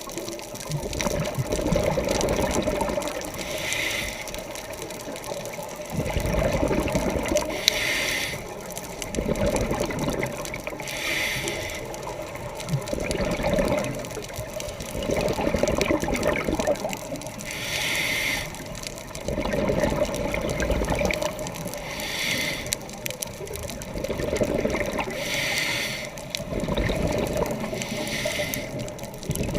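Scuba diver breathing through a regulator underwater: a short hiss on each inhale, then a longer rush of exhaled bubbles. The cycle repeats about every four seconds.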